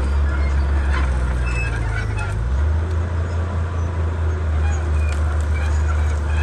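Komatsu D31P crawler bulldozer's diesel engine running under load, its low drone shifting up in pitch about two and a half seconds in, with scattered knocks and clanks from the machine's work.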